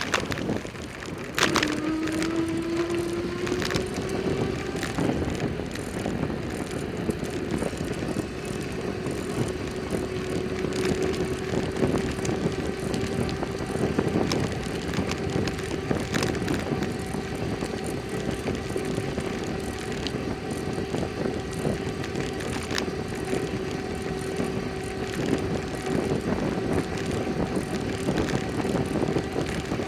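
Bicycle ride noise: steady road and wind rush under a constant hum that rises in pitch over the first few seconds and then holds steady, with a few brief knocks and jolts.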